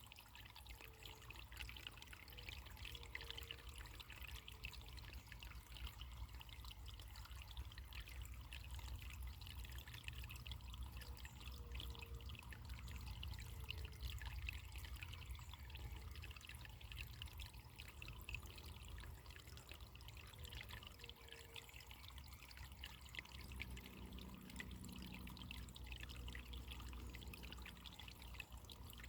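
Running water trickling and bubbling steadily, like a small stream, with a low rumble under it. A few faint short low tones come and go now and then.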